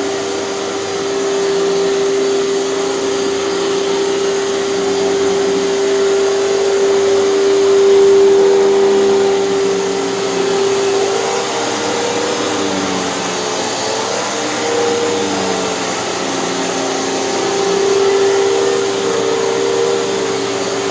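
Hoover canister vacuum cleaner running steadily, its motor whine wavering a little in pitch from about halfway through.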